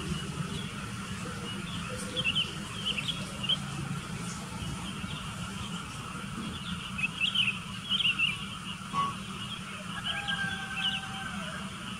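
Small birds chirping in short clusters of quick high notes, over a steady low background hum.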